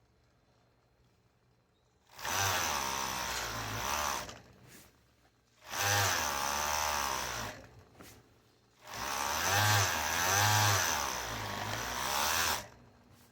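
Electric sewing machine stitching fabric in three runs of a few seconds each, its motor speed rising and falling within each run.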